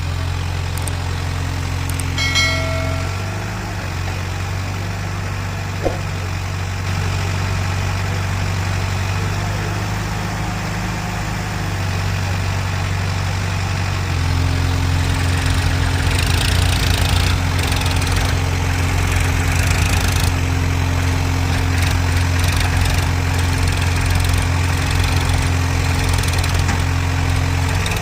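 Heavy diesel engine of earth-moving or farm machinery running steadily at a low, even drone, getting louder about halfway through as the revs come up a little. A brief pitched tone sounds about two seconds in.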